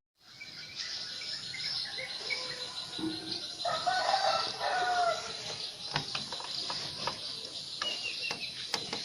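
Chickens calling, with a longer drawn-out call about four seconds in, and a few sharp clicks later on.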